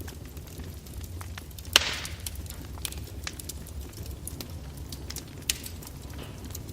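Wood fire crackling with irregular sharp pops over a steady low rumble. One loud pop about two seconds in is followed by a brief hiss, and another strong pop comes later.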